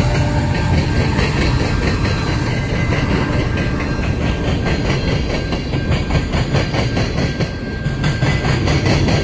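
Train rolling past with a steady clatter of wheels over the rail joints.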